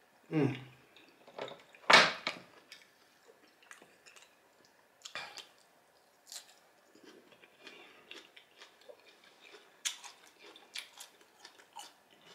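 Close-up mouth sounds of a man eating cheesy baked spaghetti: wet chewing, lip smacks and sucking sounds, with the loudest smack about two seconds in. Near the start there is a short falling hum.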